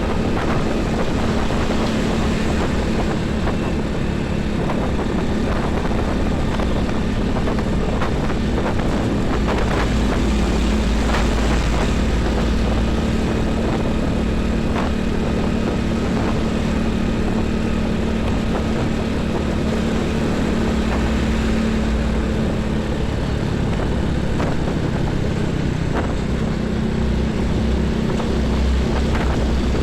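Heavy highway traffic running continuously: truck and bus engines and tyres, with a steady low engine hum. Deeper rumbles of heavy vehicles swell around ten seconds in and again near the end.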